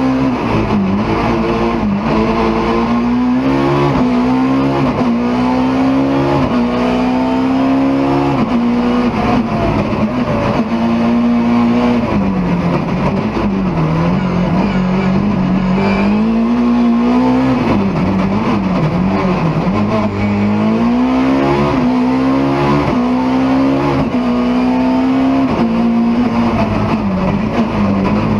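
BMW E30 M3 rally car's four-cylinder engine at full stage pace, its pitch climbing under hard acceleration and dropping sharply at each gear change or lift, over and over every second or two.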